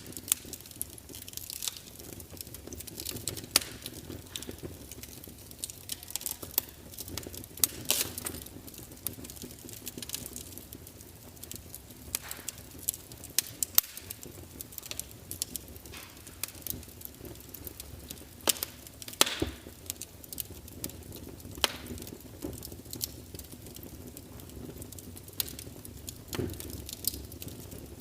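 Log fire crackling in a fireplace: irregular sharp pops and snaps of burning wood over a soft steady hiss of the flames.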